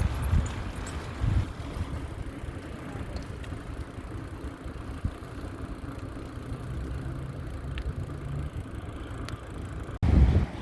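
Riding noise from a moving bicycle: a steady low rumble of wind on the microphone and tyres on the path, with a few light clicks. The rumble cuts off abruptly about ten seconds in and returns louder.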